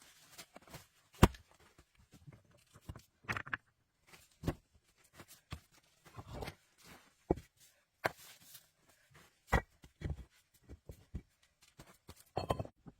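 Irregular knocks, cracks and crunching rustles of hands-on building work with branches and rocks, one sharp crack about a second in being the loudest.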